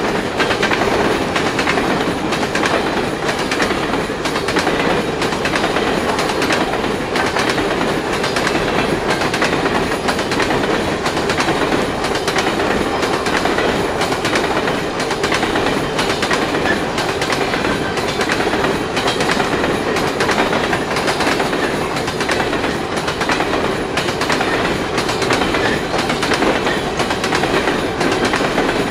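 A string of empty sulphur cars on a freight train rolling past at speed: a steady rumble of steel wheels on the rails with a constant run of clicks and knocks.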